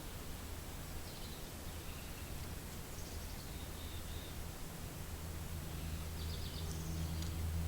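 Steady wind rumbling over the microphone, swelling a little near the end, with a few faint, high, short bird chirps and twitters scattered through.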